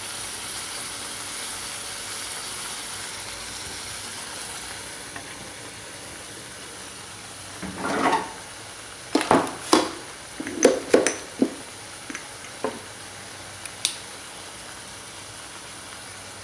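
Chicken pieces sizzling steadily in a pot. From about eight seconds in, a run of sharp knocks and clinks against the pot lasts some six seconds.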